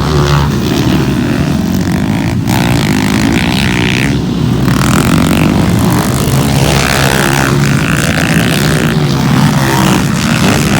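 Motocross motorcycles racing, several engines running and revving together, loud and continuous, pitch rising and falling as the bikes change speed.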